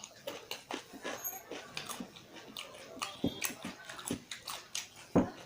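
Close-miked eating: a run of irregular wet chewing and lip-smacking clicks, with one louder smack about five seconds in.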